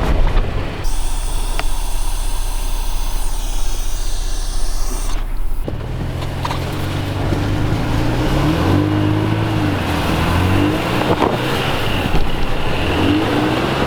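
A vehicle stuck in slushy snow trying to get free: a rushing noise for the first five seconds or so, then the engine revving up and down repeatedly as it works for traction.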